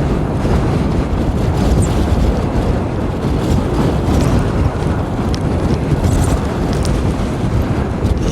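Strong wind buffeting the microphone: a loud, steady rumble heavy in the low end.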